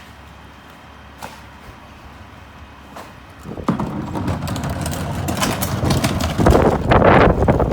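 Garbage truck's diesel engine idling low, then about halfway in a loud clattering noise with many sharp knocks takes over.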